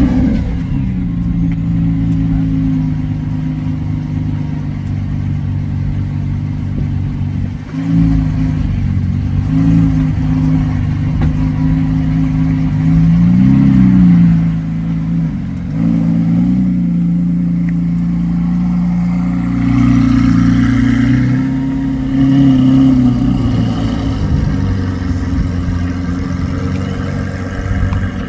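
Lamborghini Aventador's naturally aspirated V12 running at idle, with several short throttle blips and a longer rev about twenty seconds in.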